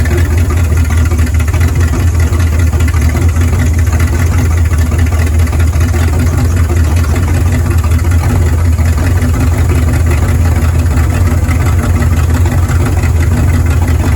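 Dodge Dart Sport engine running steadily, an even low rumble with no revving.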